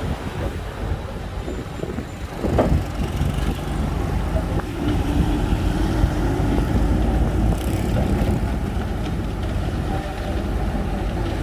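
Shantui bulldozer running, a steady low diesel rumble with a few knocks and clanks, the loudest about two and a half seconds in.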